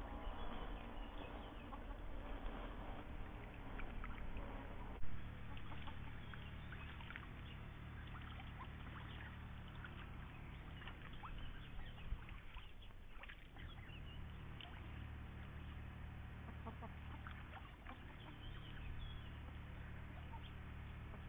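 Indian runner ducks foraging: soft calls mixed with many small pecking and dabbling clicks, and one sharper knock about five seconds in.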